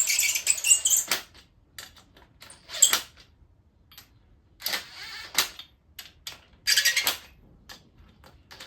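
Ratcheting torque wrench clicking in four short bursts, a second or two apart, as bolts are run in.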